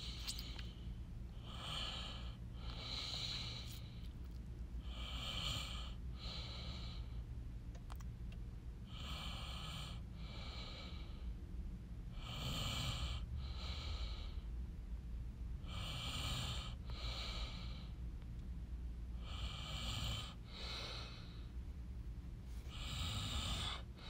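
A person breathing close to the microphone: seven slow in-and-out breath pairs, about one every three and a half seconds, over a faint steady low hum.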